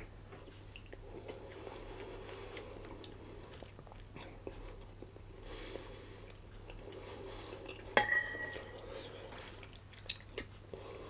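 A person chewing a mouthful of chicken curry, with quiet mouth sounds and small clicks. About eight seconds in, a utensil clinks sharply against a dish with a short ring.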